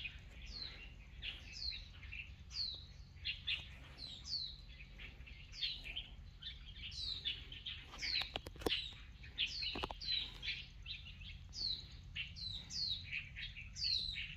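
Birds calling in the trees: a steady run of short, high chirps, each falling in pitch, about two a second. A few sharp clicks come around eight to ten seconds in.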